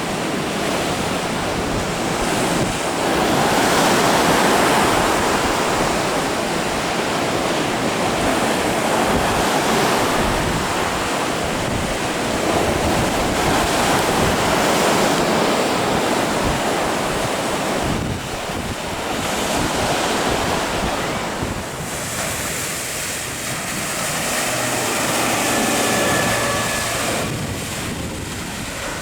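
Large Atlantic breakers crashing and surging, rising and falling in long swells every few seconds, with wind buffeting the microphone.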